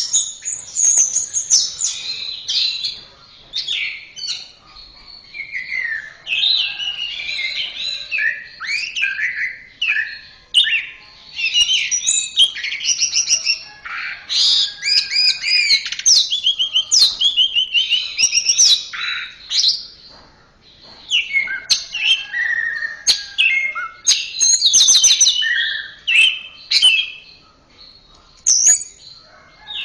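Orange-headed thrush (anis merah) singing a long, varied song of quick whistled and trilled phrases, with short pauses between bursts.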